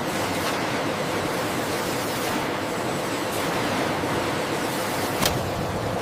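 A steady rushing noise with no pitch to it, with one sharp click about five seconds in.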